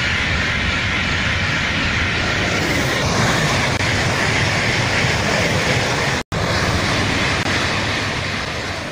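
Frecciarossa high-speed train passing at speed: a steady, loud rush of air and wheel noise on the rails. There is a brief dropout about six seconds in, and the sound fades away near the end.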